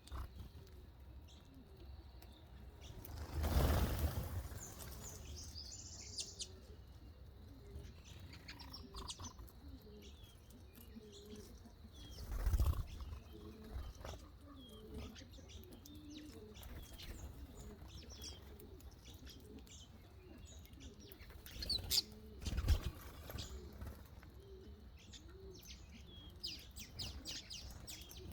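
Several birds chirping and twittering in short high calls, with low cooing underneath. Three louder whooshing bursts, about 3 s, 12 s and 22 s in, stand out above the calls.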